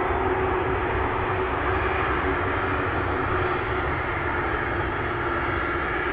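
Steady jet aircraft noise: an even rushing sound with a constant hum beneath it.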